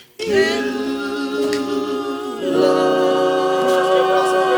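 A group of worship singers holding long notes together, swelling into a fuller, louder chord about two and a half seconds in.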